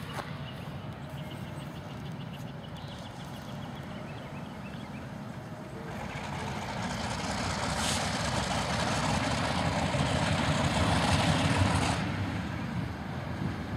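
ALCO diesel locomotives running with a steady low rumble. About six seconds in, a loud rushing hiss and a heavier rumble build up together, then the hiss cuts off sharply near the end.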